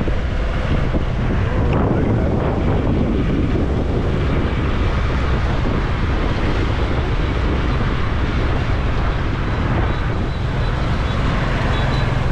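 Riding on a motorbike: a steady rush of wind buffeting the microphone over the hum of the running motorbike and the traffic around it.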